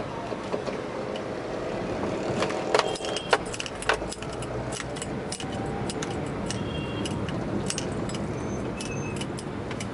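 City road traffic running steadily, with a run of metallic jingling and clinking clicks from about two and a half seconds in, like keys jangling.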